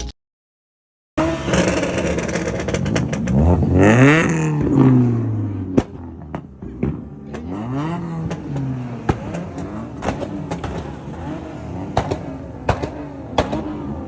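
Car engine revved hard twice, the pitch climbing and falling away about three seconds in and again about seven seconds in, with sharp pops scattered through the second half.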